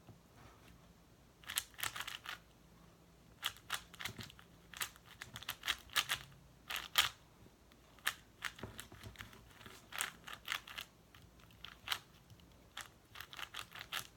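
A 4x4 speed cube being turned fast by hand: quick runs of sharp plastic clicks as the layers snap round, with short pauses between the runs.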